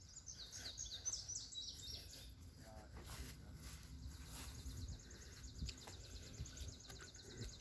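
Small songbird singing: a run of quick high chirps, then about halfway through a fast, even high trill, over a low rumble.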